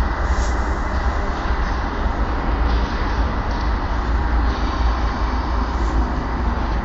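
Rail vehicle running on track: a steady heavy low rumble with hiss above it and irregular brighter rattles every second or so.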